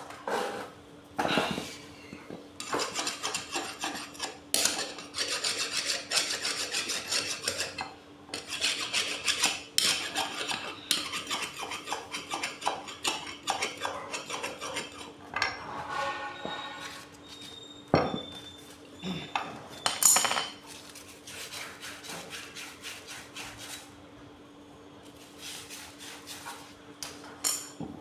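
Metal tools and metal parts of an electric water pump clinking, scraping and rubbing as the pump is taken apart for a bearing replacement, with two sharper knocks a little past the middle.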